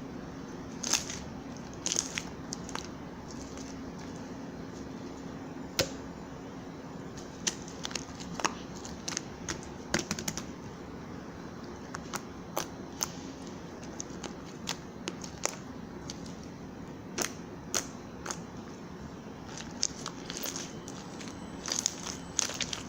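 Scattered sharp clicks and taps at irregular intervals over a steady low hum.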